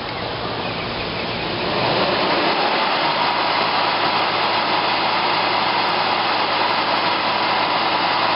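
Blacksmith's forge running with a steady rush of air and fire and a low hum underneath, getting louder about two seconds in, as the steel heats in it.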